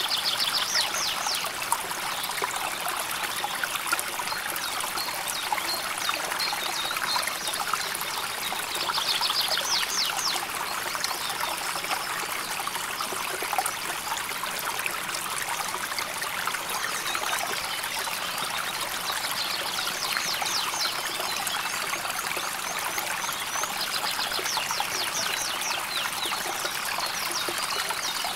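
River water flowing and trickling over stones in a steady, even babble. Four times a short, rapid high trill sounds over the water.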